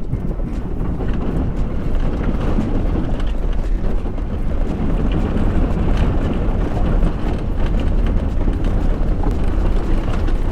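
Toyota Prius driving slowly across a harvested corn field thick with unchopped corn stalks: a steady low rumble over the rough ground, with scattered cracks and knocks as the stalks hit the car.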